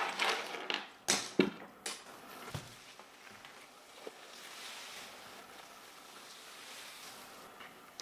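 Several sharp clicks and knocks from a computer keyboard and its parts being handled in the first couple of seconds, then a faint steady hiss with one small click.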